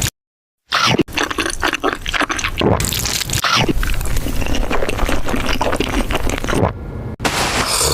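Close-miked mukbang eating sounds: wet chewing, squishing and slurping of food, made of short spliced clips, with a sudden half-second of silence just after the start.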